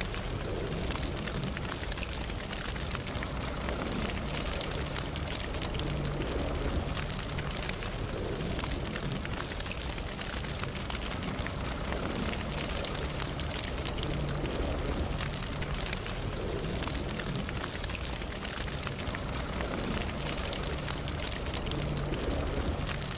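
Campfire burning, the wood crackling with many small, quick pops over a steady low rush of the flames.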